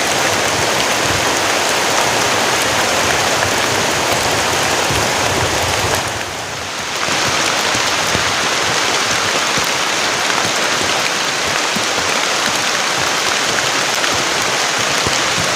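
Heavy tropical rain pouring down steadily in a dense, even hiss, briefly quieter and duller for about a second some six seconds in.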